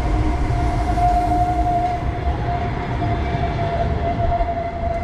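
Tram running close by, a steady whine at one pitch over a low rumble.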